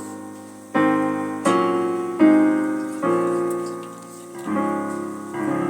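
Piano playing a run of open-voiced chords with the root in the left hand, six struck one after another and each left ringing and fading before the next. The last two come softer.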